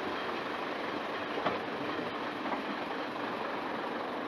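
Class 121 diesel railcar moving slowly, with a steady engine hum over the rumble of wheels on rails and one knock about one and a half seconds in.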